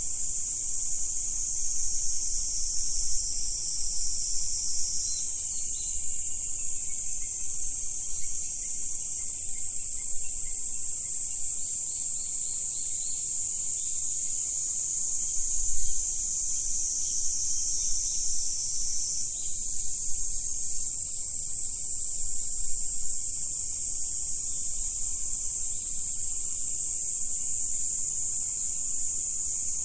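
Dense, steady chorus of insects, a shrill high buzzing hiss that shifts its pitch band a few times, with a few faint chirps about five and twelve seconds in.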